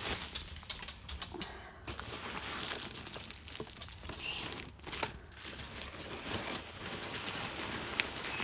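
Hands rummaging through a parcel full of loose polystyrene packing peanuts: continuous rustling and crinkling, with a few sharper clicks.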